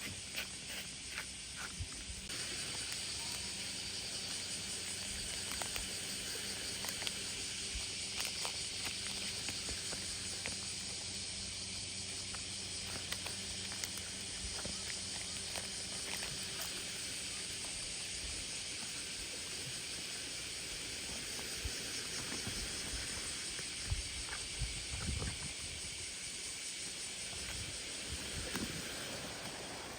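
Steady high-pitched drone of a cicada chorus on a summer day, starting a couple of seconds in, with a faint low hum beneath it that fades about two-thirds of the way through.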